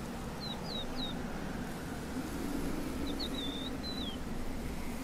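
A small bird chirping: three short, high, falling chirps within the first second, then another quick run of chirps around three seconds in, over a steady low outdoor rumble.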